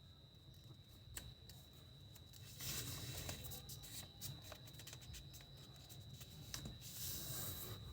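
A sheet of paper being handled, folded and creased, with scattered crinkles and clicks and two louder spells of rustling, about three seconds in and again near the end. A faint steady high-pitched whine runs underneath.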